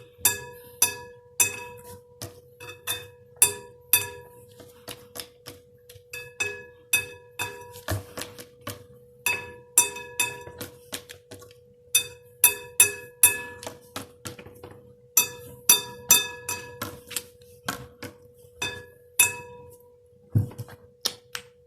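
A drumstick tapping out an improvised, irregular jazz-drum rhythm on glassware and other hard tabletop objects: sharp clinking strikes, many ringing briefly with a bright glassy tone, in quick clusters and pauses. A faint steady hum runs underneath.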